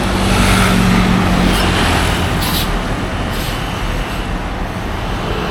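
Road traffic: a motor vehicle's engine running close by with a steady low hum that eases off after about a second and a half, leaving a continuous roadside rumble.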